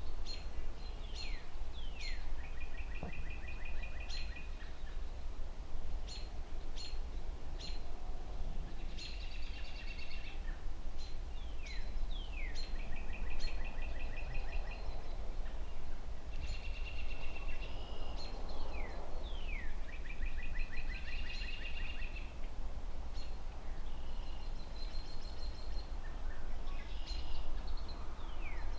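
Songbirds calling again and again: short sharp chirps and falling notes, several of them followed by a rapid buzzy trill. Underneath runs a steady low rumble of distant city traffic.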